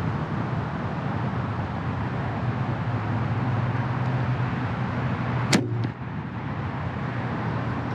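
A compound bow is shot about five and a half seconds in: one sharp crack of the release, followed a moment later by a fainter knock as the arrow strikes the target. A steady rumble of background noise runs underneath.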